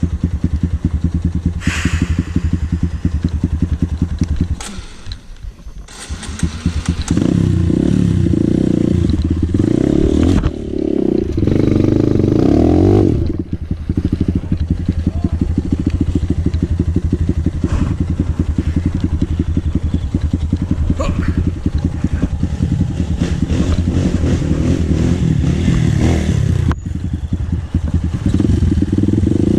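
Dirt bike engine running at a steady low speed. About five seconds in it fades almost to nothing, then picks up and is revved harder for several seconds before settling back to a steady run.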